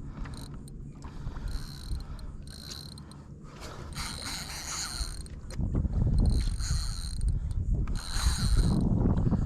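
Daiwa BG spinning reel whirring in several short bursts as a fish is fought, with low wind and water rumble underneath.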